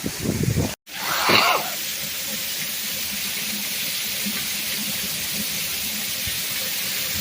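Steady hiss of a heavy thunderstorm downpour. A short louder sound comes just after a brief dropout about a second in.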